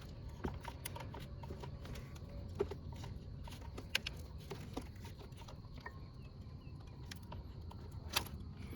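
Scattered small clicks and taps of plastic clips and wiring-harness connectors being worked loose by hand, with a few sharper clicks about two and a half, four and eight seconds in, over a low steady hum.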